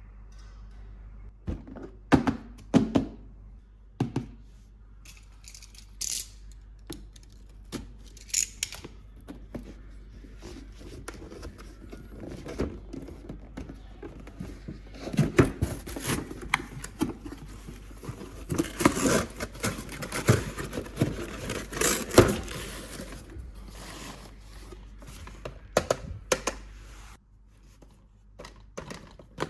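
Toy packaging being handled and opened: cardboard box thunks and taps, with tearing and crinkling of wrapping that thickens into steady rustling partway through.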